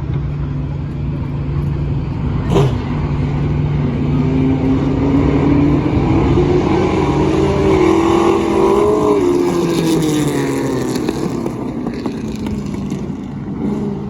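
V8 stock car engines racing at full throttle, their note climbing to a peak past the middle and then falling away as the cars go by. A short sharp crack about two and a half seconds in.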